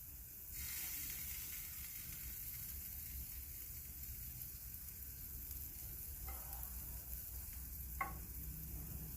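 Chicken breasts sizzling steadily on a grill as they are coated with glaze, the sizzle rising about half a second in. A single short click about eight seconds in.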